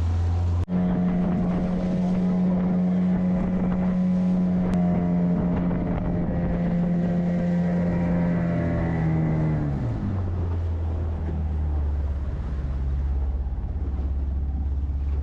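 Motorboat engine running steadily with wind on the microphone. About ten seconds in it throttles back and its drone drops to a lower pitch. There is a brief cut-out in the sound just under a second in.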